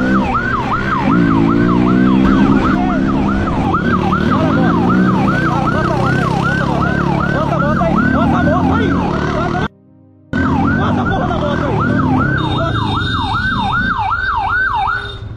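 Police siren in a fast yelp, about three sweeps a second, over an engine revving up and down. The sound drops out briefly about ten seconds in.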